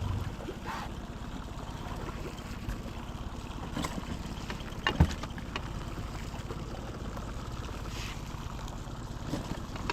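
Wind rumbling on the microphone aboard a small fishing boat, with scattered light knocks and one sharp knock about five seconds in.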